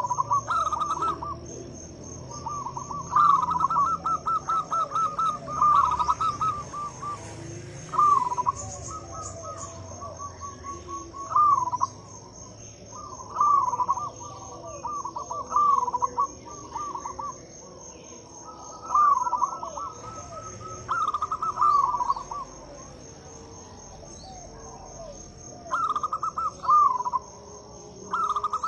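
Zebra dove (perkutut) cooing in repeated phrases of quick, trilled coos, a new phrase every few seconds. A steady high insect trill runs underneath.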